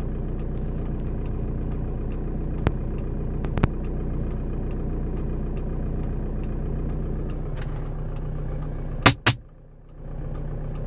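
Car engine idling steadily, heard from inside the cabin, with faint regular ticking. Two sharp knocks come close together near the end, and the sound briefly dips after them.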